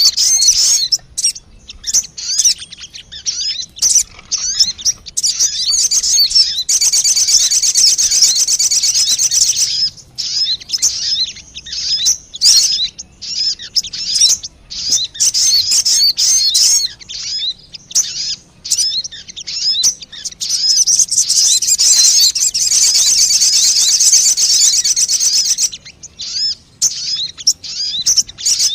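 Recorded lure call of the sogon bird played back for bird-catching: quick high chirps and twitters, breaking twice into long stretches of dense, rapid twittering.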